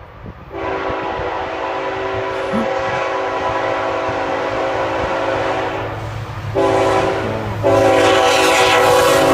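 CSX locomotive air horn blowing a multi-note chord: a long blast, a short break, a short blast, then a louder long blast as the train closes in, with the low rumble of the train underneath.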